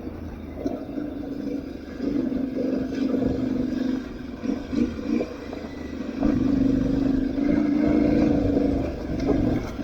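Aprilia Tuareg 660's parallel-twin engine running at low to moderate revs as the bike is ridden, with short throttle changes around the middle, then louder as it pulls harder from about two-thirds of the way in.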